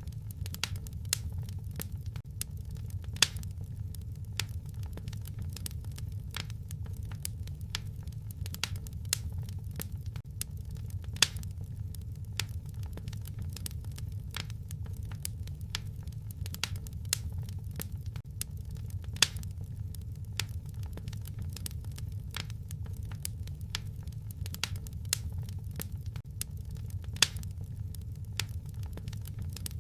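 Wood fire burning in a fireplace, crackling steadily over a low rumble of the flames, with a handful of louder pops about eight seconds apart.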